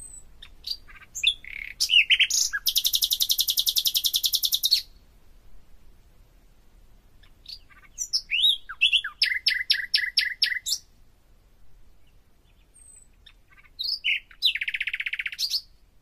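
A bird singing in three phrases, each a few quick chirps followed by rapidly repeated notes, the first and last ending in a fast, even trill.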